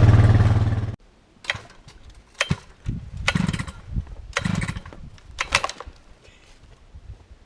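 Chainsaw engine running steadily, then shut off abruptly about a second in. A series of scattered knocks and clatters follows.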